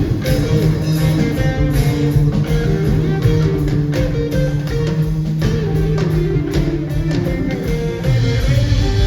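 Live rock band playing with no singing: electric guitar over bass guitar and drums with cymbals.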